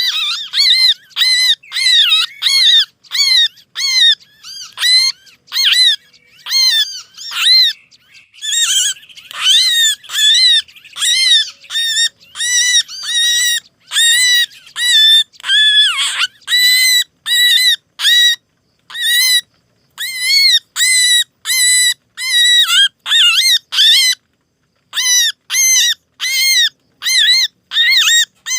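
Recorded bird-lure call of small songbirds in alarm and distress: a fast string of short, harsh chirps, about three a second. Several birds overlap in the middle.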